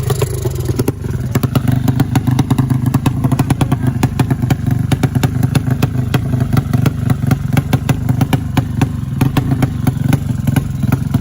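200cc motorcycle engine running steadily; its pitch drops in the first second, then holds. Rapid, irregular clicks and rattles run alongside it throughout.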